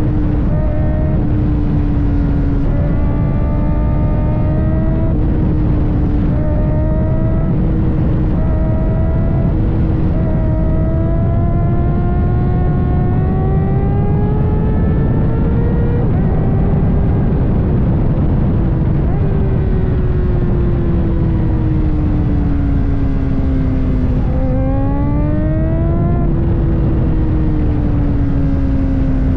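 Kawasaki ZX-4RR's 399 cc inline-four engine running at high revs under way. Its pitch shifts in short steps through the first several seconds, climbs steadily for a few seconds, then eases and falls slowly, with a quick sharp rise near the end. A dense low rush sits under it.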